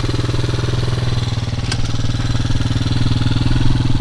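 Dirt bike engine idling steadily just after being started, with a faint click about a second and a half in.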